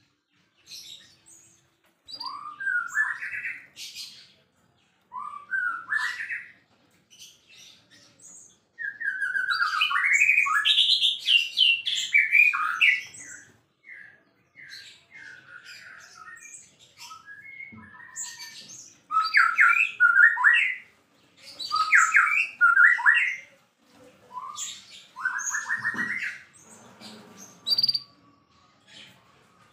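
White-rumped shama (murai batu) in full song: loud bursts of fast, varied whistled phrases with short pauses between them, the longest run about a third of the way in.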